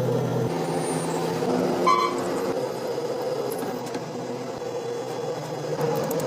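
Machine-shop machinery running with a steady hum, with a brief ringing tone about two seconds in.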